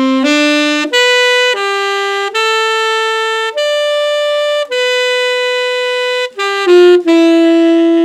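Saxophone playing a slow phrase of about ten separate held notes at an even loudness, each tone flat and unchanging with no vibrato or swells. The embouchure is held still and the player is just blowing air and moving the fingers, so the sound is plain and unshaped.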